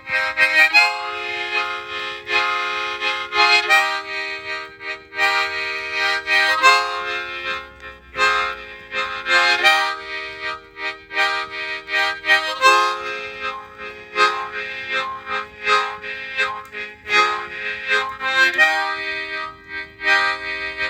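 Harmonica playing a tune in chords, with the chords changing every second or two and the notes broken into short rhythmic pulses.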